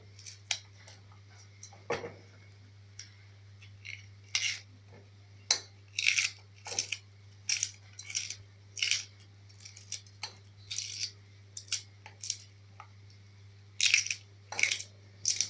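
Kitchen knife cutting vegetables by hand: a run of short, sharp cutting strokes at irregular intervals. A steady low hum runs underneath.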